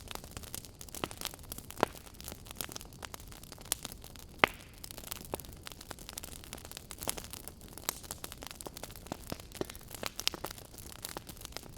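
Wood fire crackling in a fireplace: irregular snaps and pops over a faint steady hiss, with two louder pops about two and four and a half seconds in.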